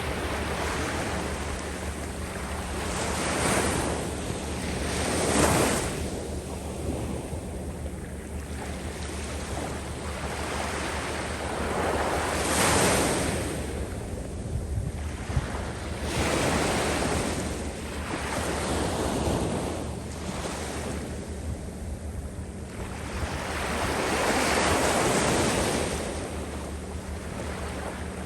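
Surf washing up and back over a sand beach, the hissing wash swelling and fading every few seconds, with wind rumbling on the microphone.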